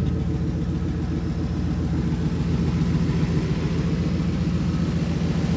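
Turbocharged Ford Expedition engine idling steadily after a fresh start, with an even pulsing exhaust note.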